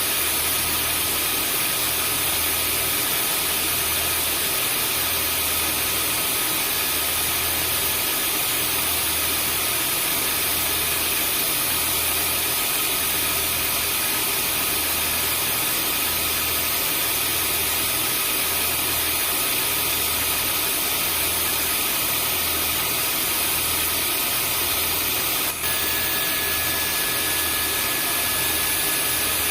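Vacuum cleaner running steadily: a constant rush of air with a motor whine and a low throb that pulses slowly. Near the end there is a brief click, after which an extra high whistle tone joins.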